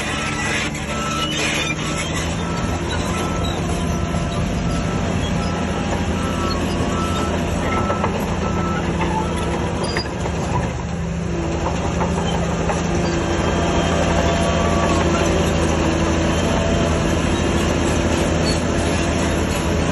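Heavy diesel earthmoving machinery running steadily, with a reversing alarm beeping about twice a second for the first six seconds or so. From about twelve seconds in, the engine gets somewhat louder, as if working under load.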